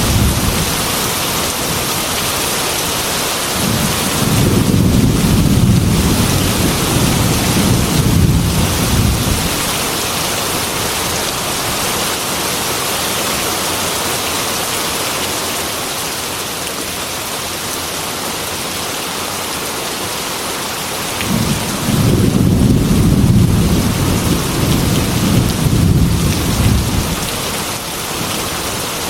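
Heavy rain falling steadily on a glass window, with rolling thunder: a rumble dies away at the start, a long roll comes about four seconds in, and another comes about twenty-two seconds in.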